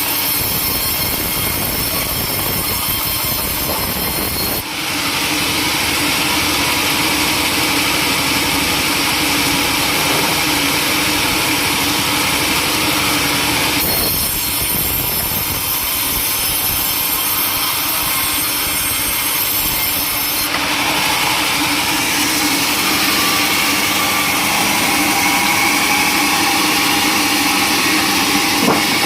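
Sawmill saw running steadily while cutting timber, its hiss brightening and dulling a few times as the cut goes on.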